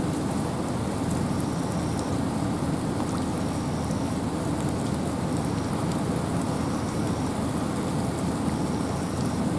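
Steady rain falling in a forest, with wind: a dense, even hiss sprinkled with faint ticks of single drops.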